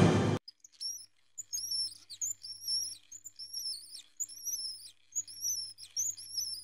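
Bird chirping: a string of short high chirps, about two to three a second, over a faint steady low hum. Music cuts off just after the start.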